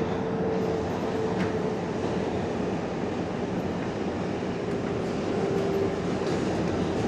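Steady running noise of an R142A subway train heard from inside the car between stations: an even rumble of wheels on rail, with a faint steady tone that comes and goes.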